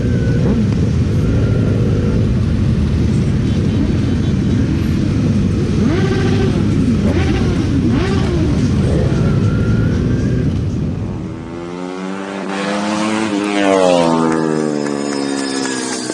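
Motorcycle engine running with its pitch rising and falling as it is ridden, under a heavy low rumble of wind and road noise. About twelve seconds in, the rumble drops away and a single clear engine rev climbs and then falls back.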